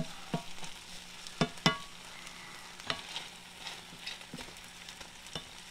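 Roast beef, onions and carrots sizzling in a cast iron skillet while a wooden spatula stirs them, with several sharp knocks of the spatula against the pan, the loudest about a second and a half in.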